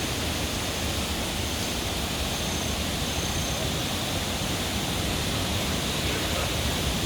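Waterfall's rushing water: a steady, even roar of falling water.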